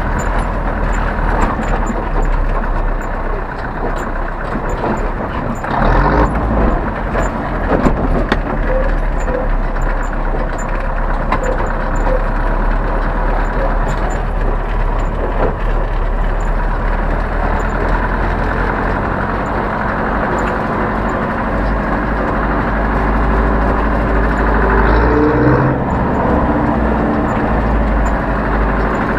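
Zetor 7011 tractor's four-cylinder diesel engine running steadily, with a few knocks and rattles about six to eight seconds in and a short rising tone near the end.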